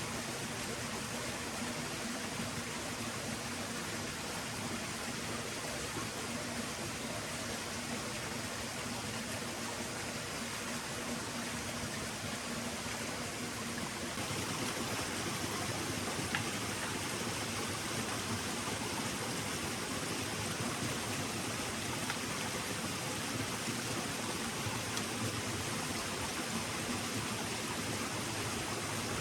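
A stream flowing steadily: a continuous rush of running water that grows a little louder about halfway through.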